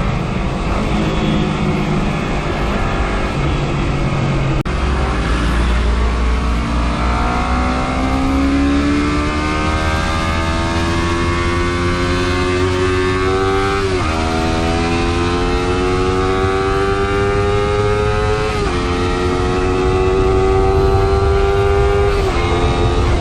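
Motorcycle engine accelerating through the gears: its pitch climbs steadily and drops sharply at each upshift, three times in the second half. Under it runs a low wind rumble, damped by the camera's foam case.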